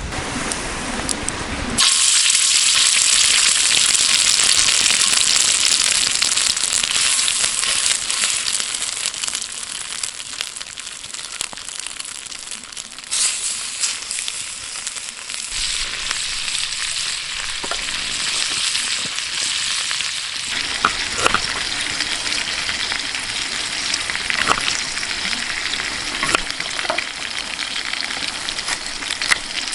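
Food frying in a hot pan: a loud sizzle starts suddenly about two seconds in, then slowly eases, with scattered sharp pops and crackles in the second half.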